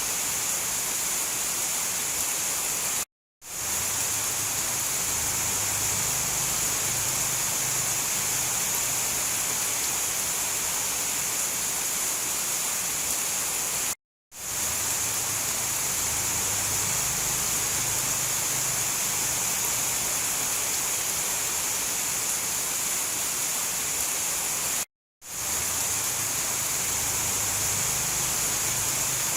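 Steady rain, an even hiss brightest in its upper range. It drops out to total silence for a fraction of a second three times, about every eleven seconds, and fades quickly back in each time, the seams of a short looped rain recording.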